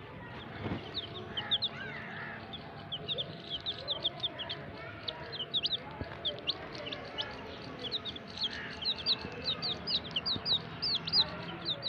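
Many baby chicks peeping together: short high cheeps overlapping several a second, growing thicker in the second half.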